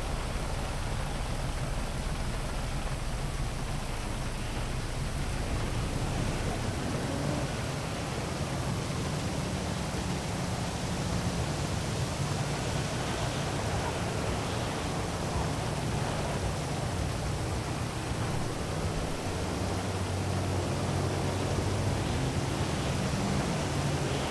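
Heavy rain falling steadily over a city, with a low rumble of traffic underneath.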